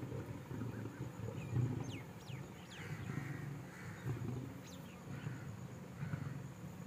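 Large birds circling overhead, calling in several short, high, sliding whistles over a steady low rumble.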